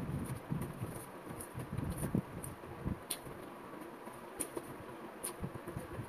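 Soft eating sounds of someone chewing a batter-fried, potato-stuffed bread pakora, with scattered sharp mouth clicks and small crunches about once a second.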